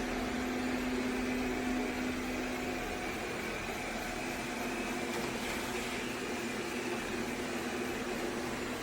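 Shark PowerDetect robot vacuum running with a steady mechanical whir and hum; a low tone in it fades about three seconds in.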